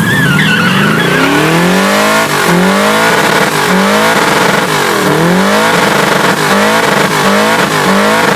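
Turbocharged Honda D16Y8 engine in a Civic, blow-off valve blocked off, revved over and over: each rev climbs for about a second, then drops sharply. A wavering tire squeal is heard near the start.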